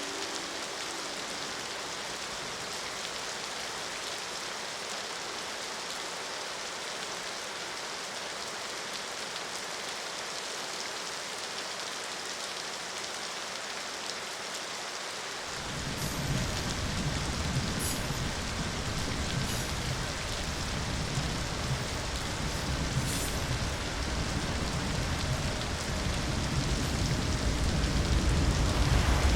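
Steady heavy rain. About halfway through, a deep low rumble comes in and builds louder toward the end.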